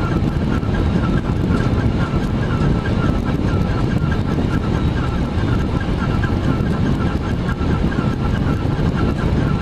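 Steady, loud rumble of airflow and engines inside a Boeing 767 flight deck, with a faint, fast ticking over it.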